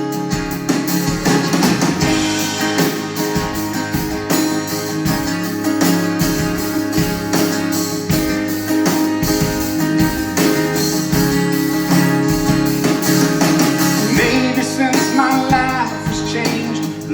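Live band playing an instrumental passage between sung lines of a pop-rock worship song, with guitars to the fore.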